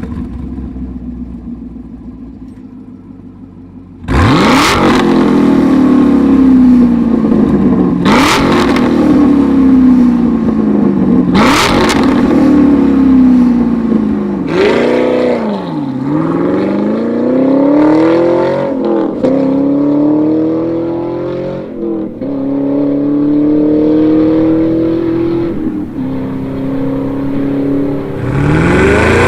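Exhaust note of a Chevrolet Camaro SS's 6.2 L LT1 V8, idling quietly at first. About four seconds in it is revved hard three times, each sharp rise in engine speed falling away over a few seconds. Then it runs more steadily with dips and rises in engine speed, with another rise near the end.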